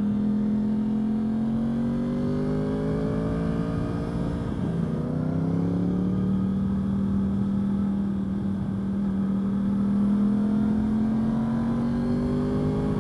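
Yamaha R1 sport bike's inline-four engine pulling under acceleration, its pitch climbing slowly, dropping once about four and a half seconds in at a gear change, then climbing slowly again.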